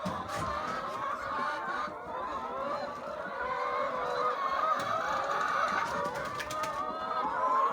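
A flock of chickens clucking and calling, many voices overlapping without a break. A short run of clicks comes about six and a half seconds in.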